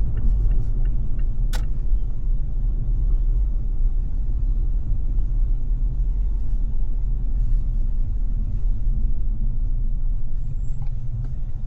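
Car driving through busy city traffic: a steady low rumble of engine and road noise, with one sharp click about a second and a half in.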